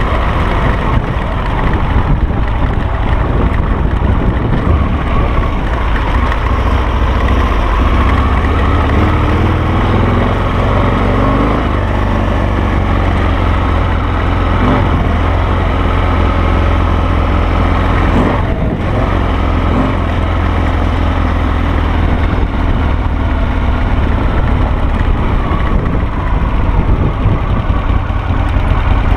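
Harley-Davidson Sportster V-twin engine of a dual sport motorcycle running steadily while riding, with the revs climbing for a few seconds near the middle.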